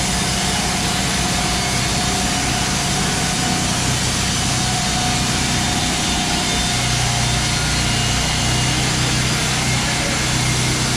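An engine running steadily under a constant rushing noise, its low hum growing stronger about two-thirds of the way through.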